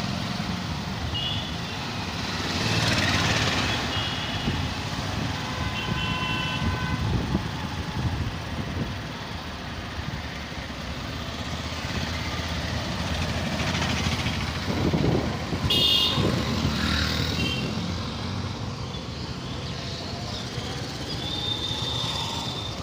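Busy city road traffic: motor vehicles running past under a steady low rumble, with horns honking several times in short beeps and a longer honk near the end.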